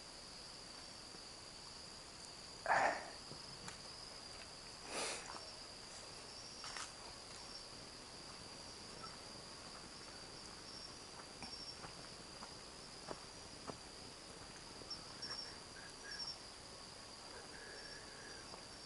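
Night insects, crickets, calling steadily in a continuous high trill. A few short noises break in, the loudest about three seconds in.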